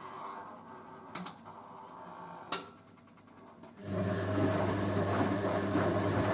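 Hoover A3060 Electronic washing machine during its rinse: two sharp clicks, then about four seconds in water starts rushing through the machine with a steady low hum.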